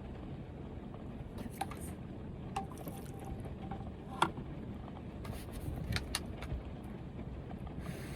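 Heavy rain beating steadily on the roof of a van, with a few light clicks and knocks inside, the sharpest about four seconds in.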